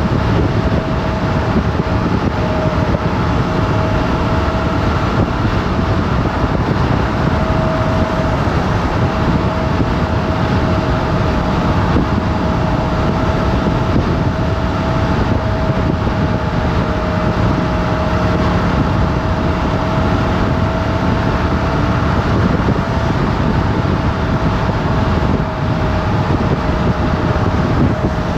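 Motorcycle engine running at a fairly steady speed under way, with a steady engine tone over heavy low wind rush on the microphone.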